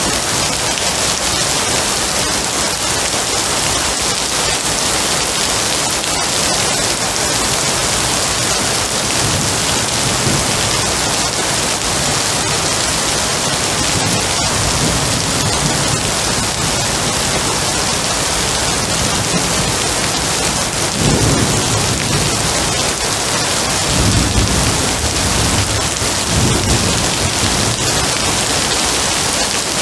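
Steady heavy rain with a thunderstorm. Low thunder rumbles swell about two-thirds of the way through and again shortly after.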